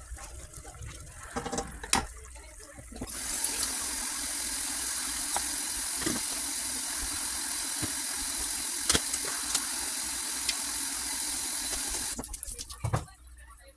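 Water tap running in a steady stream for about nine seconds, starting about three seconds in and shutting off abruptly, with a few light clinks before and after.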